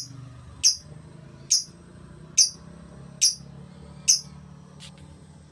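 A songbird calling with short, sharp, high chirps repeated at an even pace, a little under one a second, about seven times, the last one fainter. A steady low hum runs underneath.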